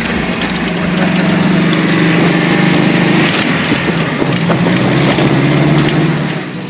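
A vehicle engine running steadily with a low hum, dropping in loudness near the end.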